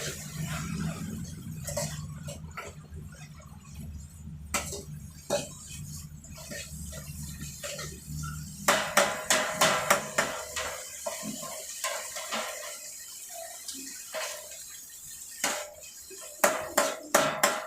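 Metal spatula clanking and scraping against a hot wok while water spinach is stir-fried over high heat. A low steady hum runs under the first half, and about halfway through the strokes turn into a quick run of sharp, ringing clanks.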